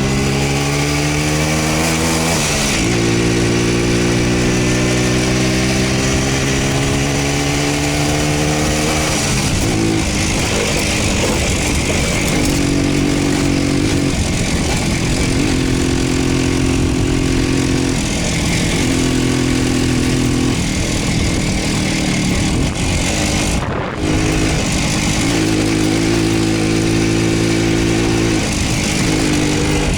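Voskhod motorcycle's single-cylinder two-stroke engine running under way. Its pitch rises as it accelerates, drops sharply about two and a half seconds in at a gear change, climbs again until about nine seconds in, then rises and falls with the throttle.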